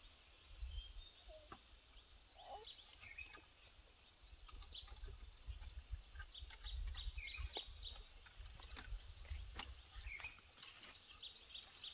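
Birds chirping faintly, with a rapid run of quick falling notes near the end, over a low rumble and a few light clicks.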